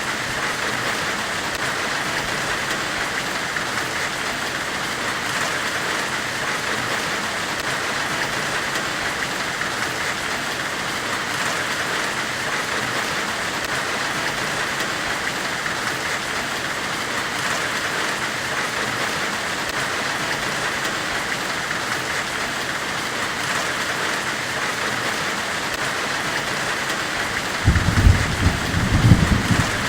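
Steady, even hiss of a forge-weld white-noise soundscape, with irregular low rumbles starting near the end.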